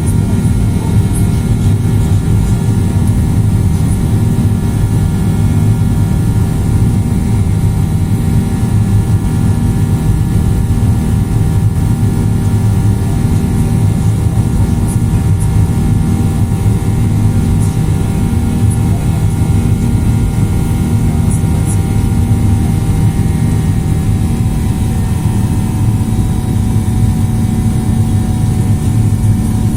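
Boeing 737-800 cabin noise during the climb after takeoff: its CFM56-7B jet engines and the airflow make a steady, loud, low rumble with a constant hum running through it, heard from inside the passenger cabin.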